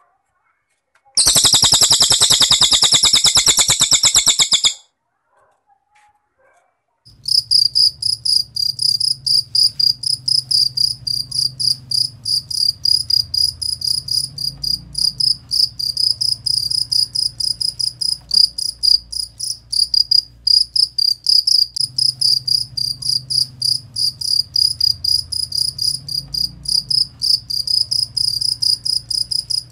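A cililin bird gives a fast, buzzy high trill lasting about three and a half seconds. After a short pause, a cricket starts chirping at a high pitch, about three chirps a second, and keeps going steadily.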